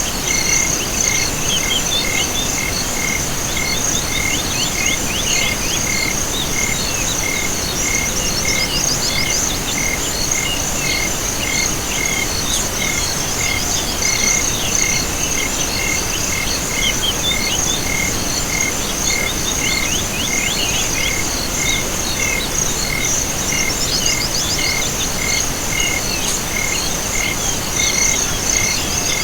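Chorus of insects and frogs: a steady high insect trill, a regularly repeating call about twice a second, and scattered quick chirping calls over it.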